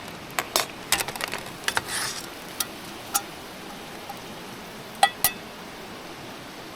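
A scattering of sharp clicks and light knocks over a steady hiss: about a dozen in the first three seconds, then two louder ones about five seconds in.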